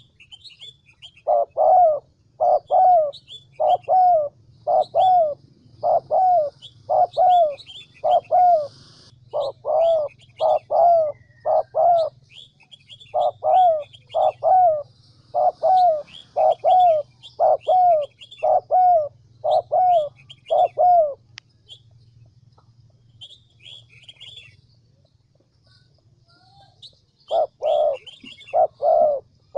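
Spotted dove cooing: a long run of evenly repeated low coos from about a second in, stopping around two-thirds of the way through and starting again near the end. Faint high chirps of small birds and a steady low hum sit beneath it.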